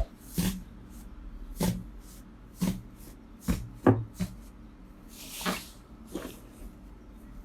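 Slime being pressed and squeezed by hand: a run of short squishes and pops, roughly one a second, with one longer airy squelch about five and a half seconds in.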